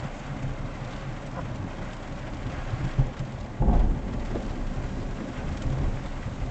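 Rolling thunder rumbling under steady rain, with a louder low boom of thunder about halfway through.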